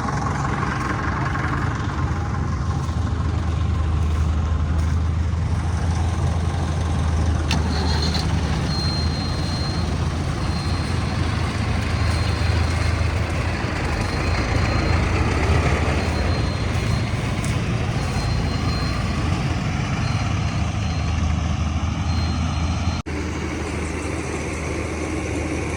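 Tractor diesel engine running steadily under load. A faint, high-pitched tone in short broken dashes comes in about a third of the way through. The sound cuts out for an instant near the end.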